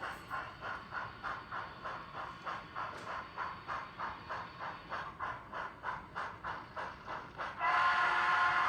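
ESU LokSound DCC sound decoder in an N scale brass Southern Pacific GS-1 steam locomotive model, playing steady steam exhaust chuffs about three a second through the model's small speaker. Near the end a louder whistle of several tones sounds over them.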